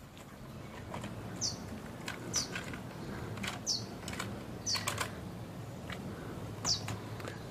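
A bird giving short, high, falling chirps, one every second or so, over a low steady hum, with sharp clicks scattered between them from a small handheld device being handled.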